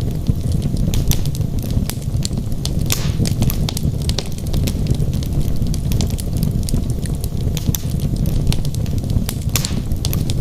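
Wood logs burning in a fireplace: a steady low rumble of flames under frequent sharp crackles and pops, with a couple of louder pops about three seconds in and near the end.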